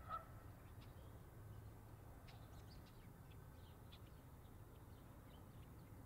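Faint outdoor bird calls: one short call right at the start, then many brief high chirps scattered throughout, over a low steady background rumble.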